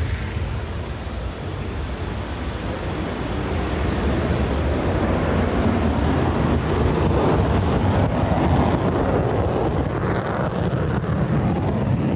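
Su-27M (Su-35) fighter's twin turbofan engines during a display flight: a broad rushing jet noise that swells over the first eight seconds or so and then eases slightly, with wind buffeting the microphone.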